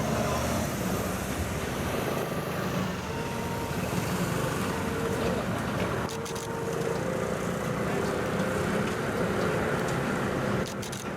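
Heavy truck's diesel engine running steadily, with a faint whine over it; the noise drops suddenly about ten and a half seconds in.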